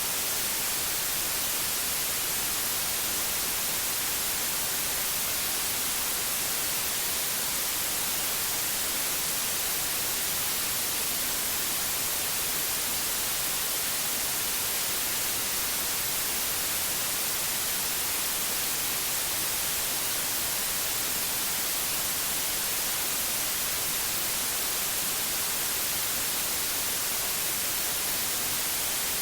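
Steady synthetic white noise: an even hiss, brightest in the high end, with no change or events.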